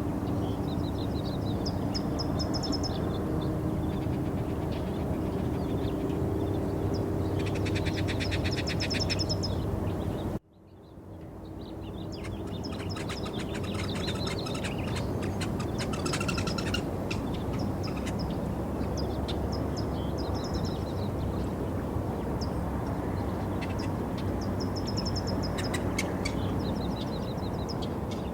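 Birds chirping and trilling over a steady outdoor background rumble. About ten seconds in the sound cuts out abruptly, then fades back up.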